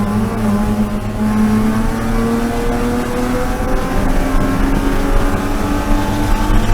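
BMW E36 M3 race car's straight-six engine under hard acceleration, its pitch rising steadily as it pulls through a gear.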